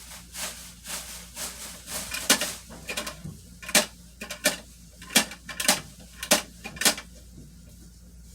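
An irregular series of sharp clacks and knocks of small hard objects striking, loudest and most frequent in the middle few seconds.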